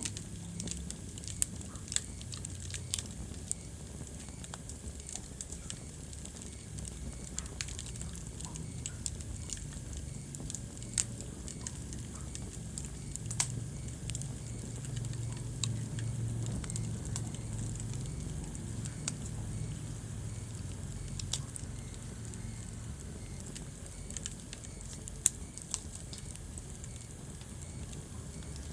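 Wood fire burning in a fireplace: a steady low rumble of flames under frequent small crackles and a few sharper pops of burning wood.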